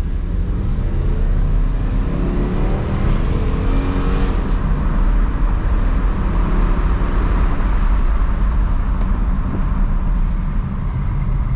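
2006 Dodge Ram 1500's 5.7-litre Hemi V8 accelerating, rolled into the throttle. The engine note rises for about three seconds, then drops at a gear change about four and a half seconds in, and the truck settles into steady engine and road noise.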